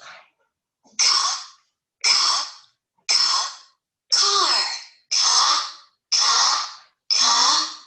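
A voice whispering the word "car" seven times, about once a second, as a quiet phonics repetition.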